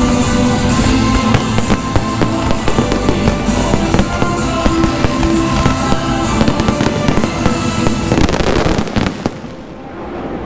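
Aerial fireworks shells bursting in rapid succession with dense crackling, over music. The barrage stops abruptly about nine seconds in.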